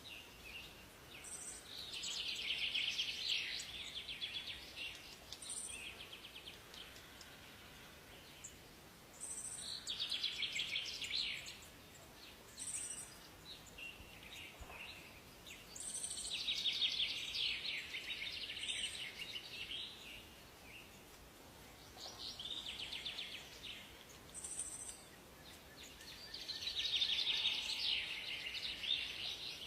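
Songbirds singing: rapid trilled song phrases lasting a couple of seconds each, recurring about every six seconds, with short high chirps between them over a faint steady hiss.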